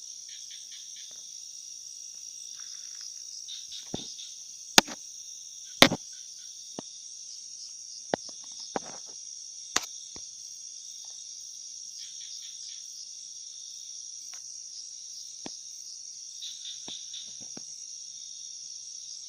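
Crickets and other insects in a steady, high-pitched chorus. Several sharp clicks or snaps cut through it, the loudest about five and six seconds in.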